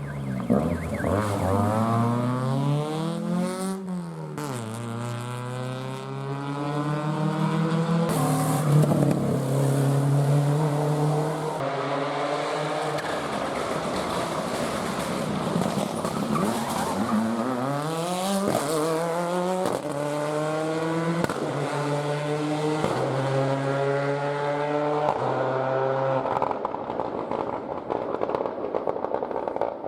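Rally car engine driven hard, revs climbing and dropping back again and again as it shifts up through the gears, brakes and downshifts for corners. About a third of the way in there is a stretch of tyre noise.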